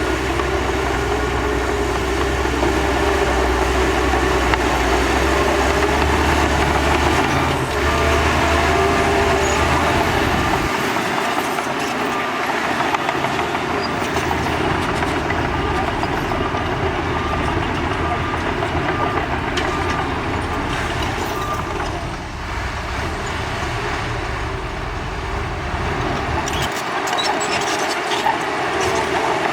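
Heavy diesel earthmoving machinery running steadily under load, with a deep low rumble that fades about ten seconds in.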